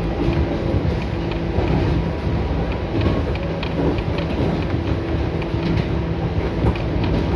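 Two-car electric local train running at speed, heard from inside a passenger car. A steady rumble and hum from the running gear is joined by scattered clicks from the wheels on the rails.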